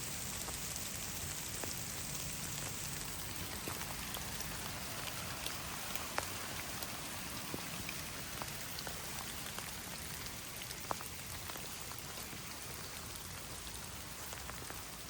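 Steady rain falling, with scattered sharper taps of single drops landing close by.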